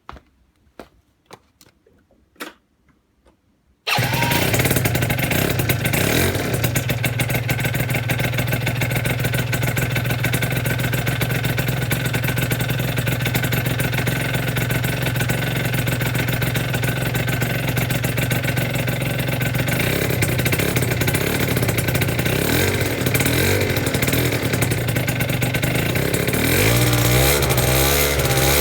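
A few light clicks, then about four seconds in a two-stroke scooter engine breathing through a Yasuni R exhaust fires up abruptly and runs steadily at idle. It is blipped slightly near the end.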